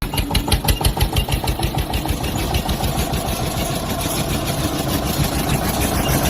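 Tractor engine running with a rapid, even chugging beat. It starts and stops abruptly.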